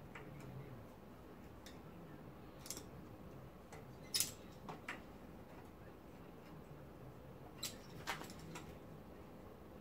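Faint, scattered sharp clicks and light knocks of tools and metal parts being handled. The sharpest comes about four seconds in, and a pair follows near eight seconds.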